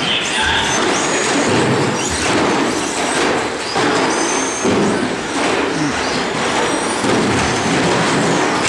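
Several radio-controlled short-course trucks racing together, their motors giving short high whines that rise and fall as they accelerate and brake, over a steady din of tyres and chassis on the track.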